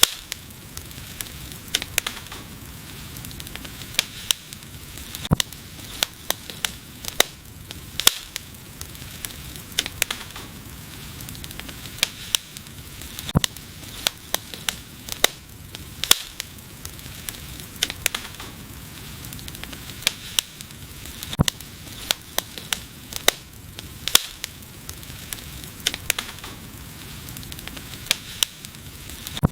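Wood fire burning: a steady low hiss with frequent sharp, irregular crackles and occasional louder pops.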